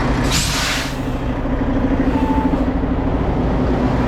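Mack truck's diesel engine running steadily, with a short hiss of released air from the air brakes about half a second in.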